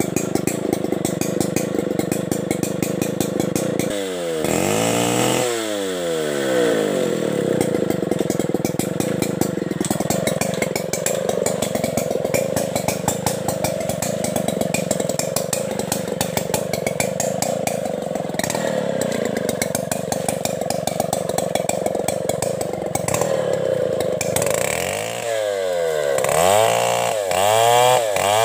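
Stihl 070 two-stroke chainsaw running steadily. It is revved up and down once about four seconds in, and several times in quick succession near the end.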